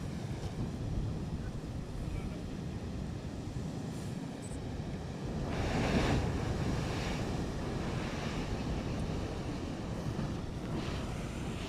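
Rough sea: waves surging and breaking under a steady rush of wind on the microphone, with the biggest wave surge about six seconds in.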